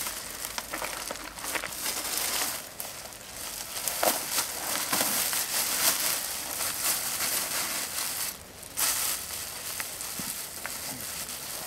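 Foil-faced bubble insulation being handled and unrolled, crinkling and crackling with many small clicks, easing off briefly twice.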